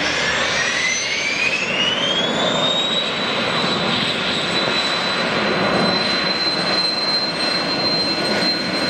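Aircraft turbine engine spooling up: a whine that rises over the first three seconds and then holds steady and high, over a loud rush of engine noise.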